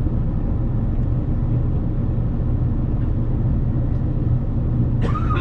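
Steady low rumble of a JR Kyushu 787 series electric train's running gear, heard from inside the carriage as it pulls into the station platform. A brief higher-pitched sound with a rising then falling pitch comes near the end.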